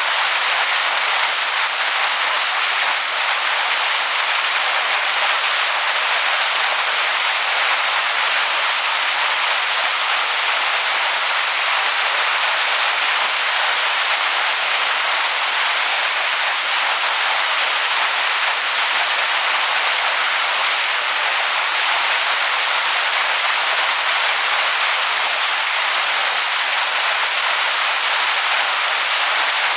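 Waterfall splashing onto rocks: a steady, loud, even rush of falling water, mostly hiss with little low rumble.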